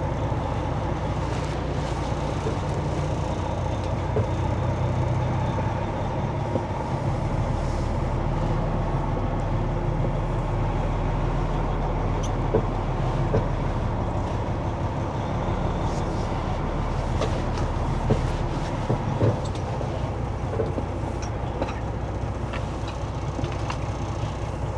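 Semi truck's diesel engine running at low speed, heard from inside the cab, its note shifting a few times as the truck is manoeuvred; a few light clicks and knocks.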